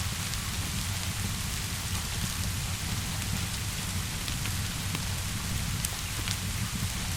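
Steady rainfall with a low rumble underneath and scattered sharp crackles from a wood fire, a few of them louder near the end.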